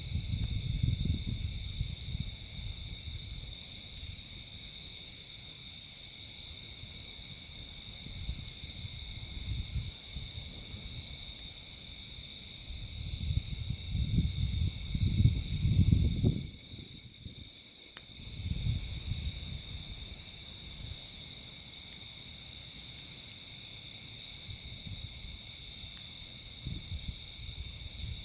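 Steady chorus of insects, crickets or katydids, trilling without a break. Low uneven gusts of wind buffet the microphone, strongest about half way through.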